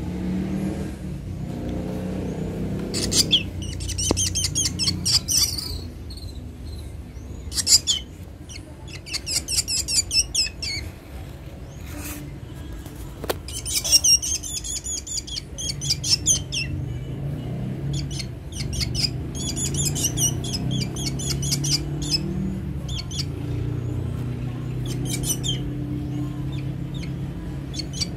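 A hungry black bird chirping in bursts of rapid, high notes, a cluster every few seconds, over a low steady rumble.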